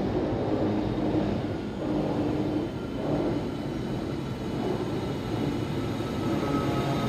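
Wengernalpbahn electric rack-railway train pulling into the station: a steady low running rumble, with a faint whine coming in near the end as it draws close.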